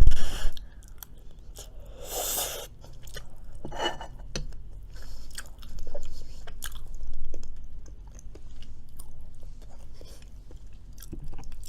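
A person chewing and biting food close to the microphone, with crunchy bites and small mouth clicks. A loud sharp sound comes right at the start.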